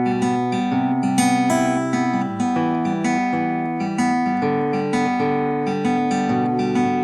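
Acoustic guitar intro: picked and strummed notes ringing, with no singing yet.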